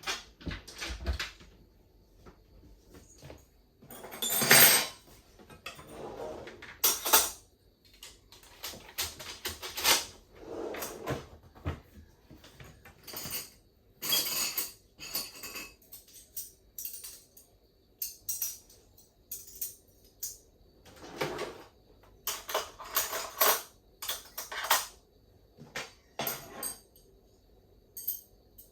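Kitchen handling sounds: dishes, cutlery and cupboard doors knocked and clinked at irregular intervals, with a longer, louder rush about four seconds in.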